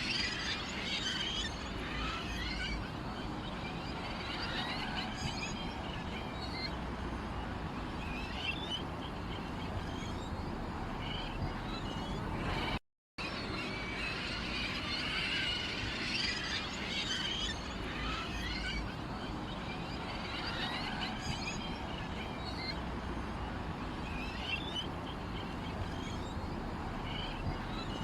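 Many small birds chirping and twittering together over a steady low background hiss. The sound cuts out completely for a moment about halfway through, then the chirping picks up again.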